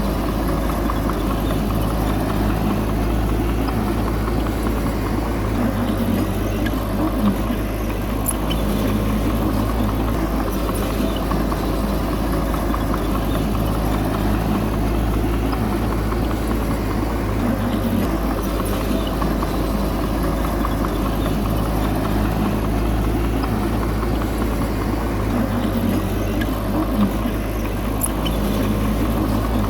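A bulldozer's diesel engine runs steadily under load with a low hum and mechanical clatter, and two brief knocks come through, one early and one near the end.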